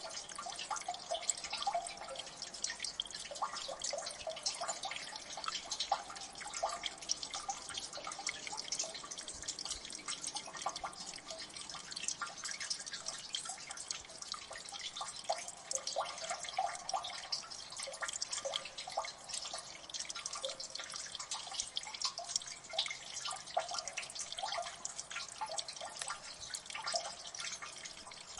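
Water dripping in a gully: many small drops falling irregularly and close together, plinking over a steady high hiss of running water.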